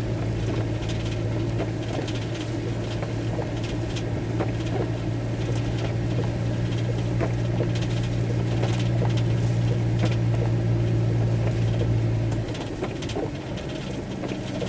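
Raindrops ticking on a van roof over a steady low hum, which cuts off about twelve seconds in.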